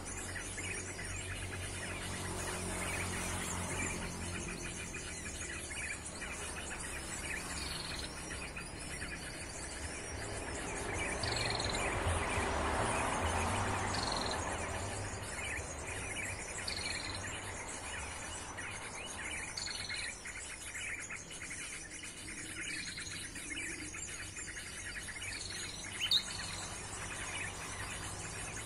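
Short bird chirps repeating every two or three seconds over a steady drone of insects, with a vehicle passing on a nearby road in the middle and a low traffic rumble throughout.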